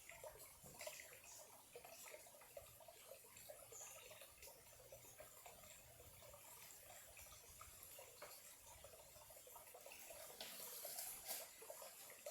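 A small stream of clear water trickling and gurgling faintly and steadily, with small splashes and drips.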